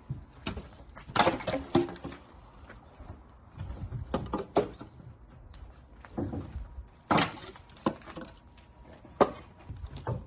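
Dry split firewood knocking and clattering as logs are handled and loaded: a string of irregular, sharp wooden knocks.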